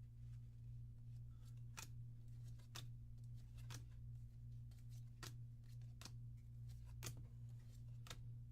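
Trading cards from an opened booster pack being flicked over one at a time: a faint, sharp snap about once a second, over a steady low electrical hum.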